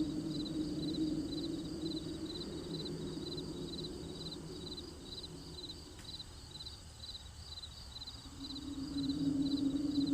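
A cricket chirping in a steady, even rhythm of about three chirps a second, over a low steady hum that fades away past the middle and comes back near the end.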